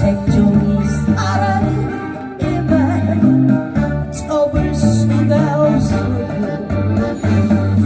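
A woman singing a pop song through a PA, with guitar and a steady stepping bass line underneath; her voice comes in and drops out in phrases.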